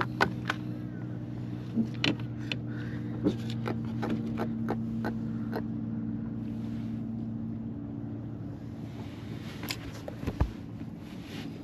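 An engine hum that holds steady and then fades out about eight seconds in, with scattered light clicks and knocks over it.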